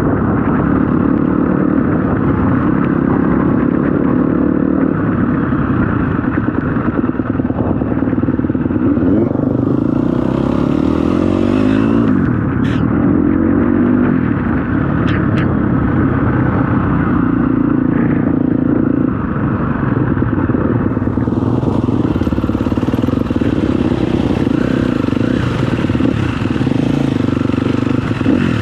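Dirt bike engine running continuously while riding a trail, its pitch rising and falling as the throttle is opened and eased off. A few sharp knocks or clatters come about halfway through, and a hiss joins in over the last third.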